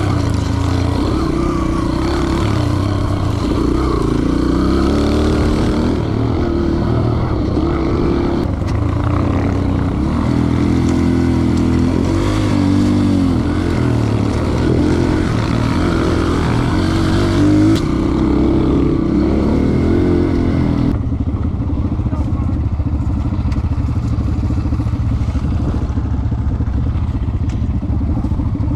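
Dirt bike engine under way, its revs rising and falling as the rider works the throttle over rough ground. About two-thirds of the way through it settles into a steadier, lower note.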